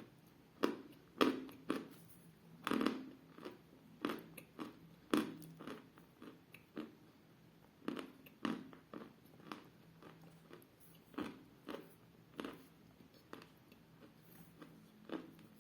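Close-up biting and chewing of hard, dense 'Milky Ice' edible clay: a string of short, crisp crunches at irregular intervals, the loudest in the first half.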